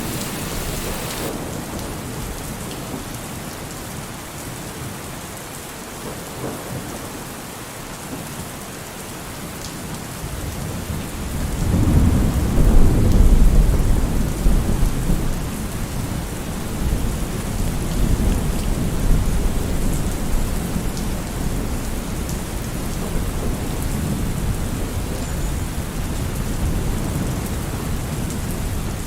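Steady rain falling, with a long rolling thunder rumble that swells about a third of the way in, is loudest a few seconds later, then rolls on more softly under the rain.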